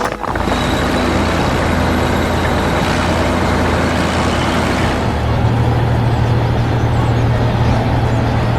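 Heavy diesel engine of logging equipment running steadily, a low drone with hiss above it. About five seconds in, the hiss falls away and the low drone grows stronger.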